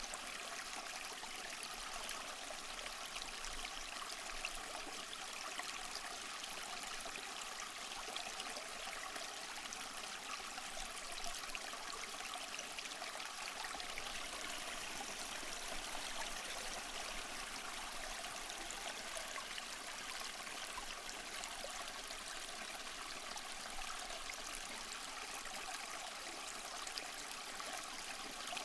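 A small mossy waterfall splashing and trickling steadily, an even rush of falling water with no breaks.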